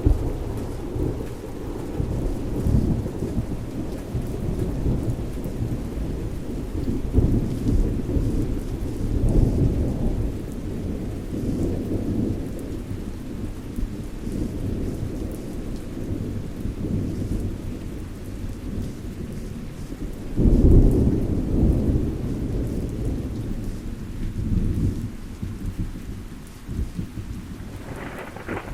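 Thunderstorm: continuous low rumbling thunder over steady rain, with a louder roll of thunder building about two-thirds of the way through.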